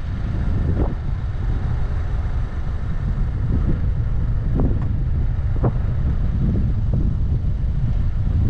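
Wind buffeting a camera mounted on the bonnet of a moving car, over a steady low road and engine rumble, with short gusts flaring every second or so.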